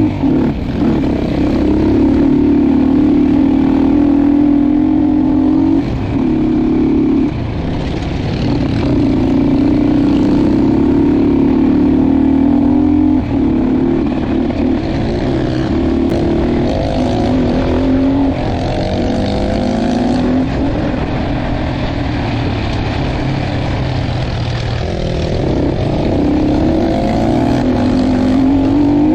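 Dirt bike engine under way, its pitch rising and falling as the throttle opens and closes, with short dips where the revs drop.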